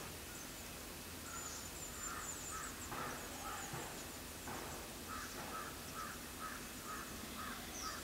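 Wild birds calling: a short call note repeated about two to three times a second from about two seconds in, with thin, high chips around a second and a half in.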